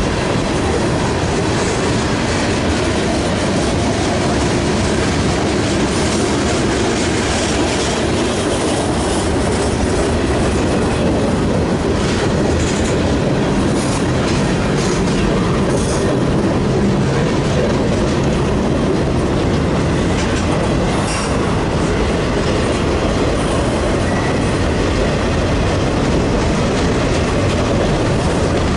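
A train's cars rolling steadily past: a continuous loud rumble of steel wheels on rail with scattered clicks of wheels over rail joints.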